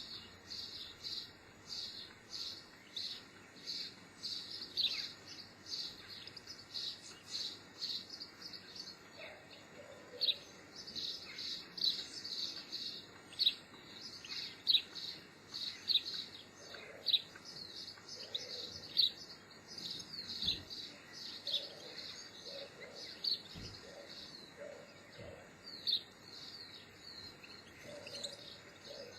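Small birds chirping: a steady run of short, high chirps, about two a second, with several birds overlapping and some fainter, lower calls mixed in.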